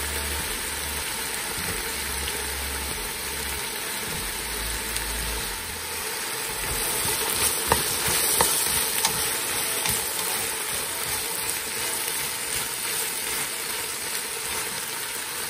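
Sliced zucchini and onion sizzling in hot olive oil in a stainless steel pan, a steady frying hiss that gets a little louder about seven seconds in. There are a couple of sharp clicks about eight seconds in.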